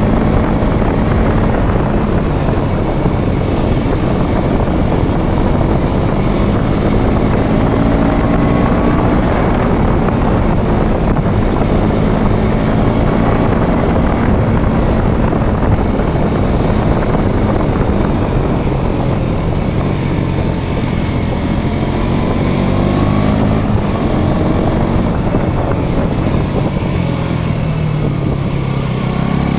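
Motorcycle engine running while riding, its pitch rising and falling with changes in speed over a steady rush of wind and road noise; it climbs again near the end.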